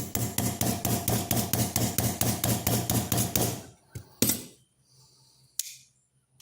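Light, rapid hammer taps on a pocket knife's metal bolster resting on steel angle iron, about six a second for three and a half seconds, then two single knocks. The taps bend the blade's pivot pin and frame slightly to bring an off-centre blade closer to centre.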